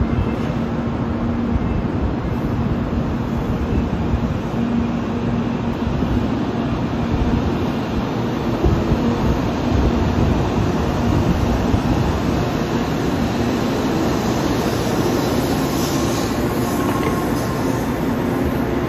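JR West N700 7000-series Shinkansen rolling slowly alongside a station platform, a steady low rumble of wheels and traction equipment with a faint steady hum. The hiss grows a little near the end.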